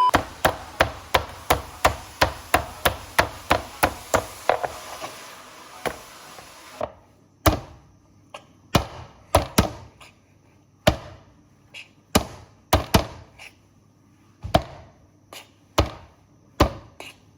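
Raw chicken being beaten on a chopping board: sharp, even blows about three a second for the first five seconds, then slower, irregular blows about once a second.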